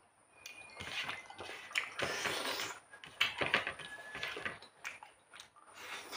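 Wet chewing and lip-smacking of someone eating rice by hand, with soft squelches as fingers gather the rice on a plate; irregular clusters of smacks, loudest around the middle.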